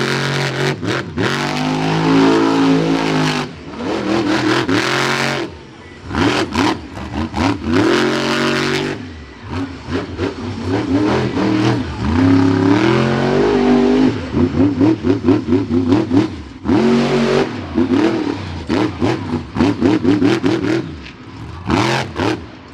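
Monster truck engine revving hard during a freestyle run, its pitch climbing and falling again and again, with several sudden throttle cuts and a string of quick throttle blips near the end.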